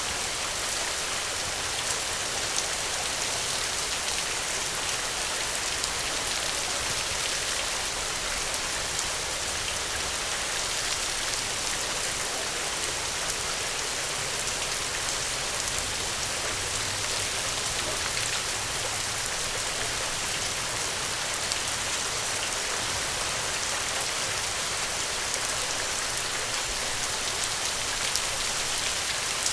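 Steady gentle rain, a continuous even hiss with faint scattered drop ticks.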